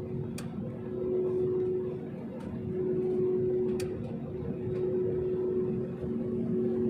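Airliner cabin noise: a steady engine hum over a low rumble, swelling and easing every couple of seconds, with a couple of faint clicks.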